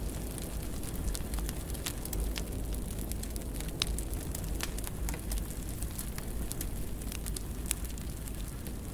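Wood fire crackling in a fireplace: irregular small pops and snaps over a steady low rumble of burning, with one sharper pop about four seconds in.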